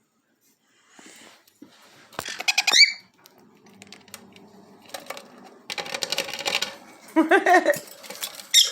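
Small pet parrots chirping and squawking: a short high chirp about two seconds in, then a patch of rapid clicking and scratching, a lower warbling call around seven seconds, and another sharp chirp near the end.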